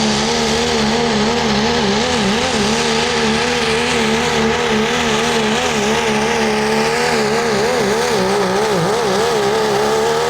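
Engine of a competition pulling vehicle running flat out under load on a pull, its note held high with the pitch wavering rapidly up and down.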